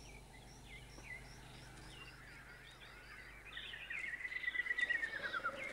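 Wild birds calling in open woodland. A string of short, high chirps repeats about twice a second, and about three and a half seconds in a louder song of quick notes joins it, ending in a short falling run.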